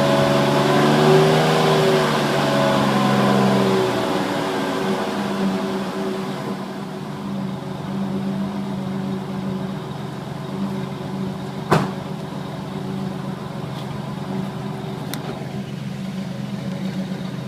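2005 Ford Ranger's 3.0 L V6 idling through the stock exhaust with a gutted third catalytic converter, giving a mild exhaust rumble. The engine is louder with a slightly wavering pitch for the first few seconds, then settles into a quieter steady idle. A single sharp click comes about twelve seconds in.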